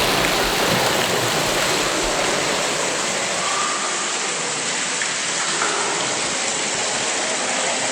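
Steady rush of falling water, an even hiss and roar with no breaks.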